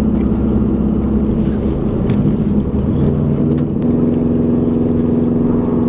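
Car engine and road noise heard from inside the cabin while driving at speed. The engine note changes about two seconds in and settles into a new steady drone about four seconds in.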